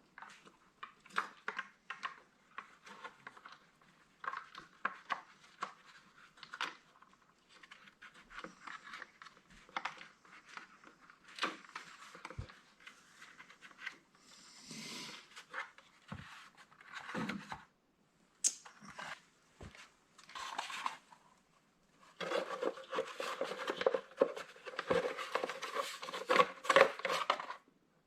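Small hand-handling noises from refitting a tractor tail light and its bulb and wiring: scattered clicks, light knocks and scrapes of plastic and metal parts. In the last six seconds these turn into a busier run of rapid scraping and clattering.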